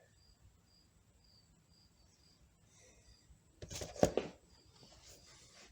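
A cricket chirping in short high pulses about twice a second, faint in the background. About four seconds in, a brief, loud clatter of sharp knocks.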